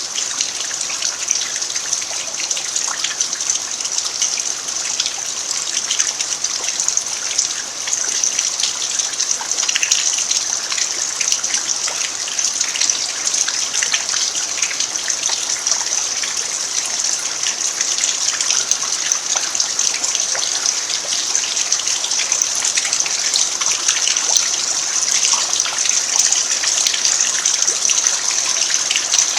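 Steady rain falling on a dirt yard, an even hiss with many small drop taps throughout.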